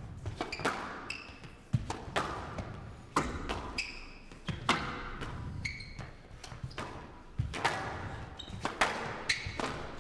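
Squash rally: the hard rubber ball cracks off rackets and the court walls about once a second, each hit ringing in the glass court, with short high squeaks of court shoes between the hits.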